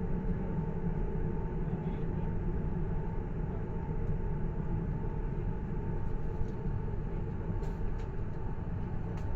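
Steady running rumble of a passenger train, heard from inside the carriage.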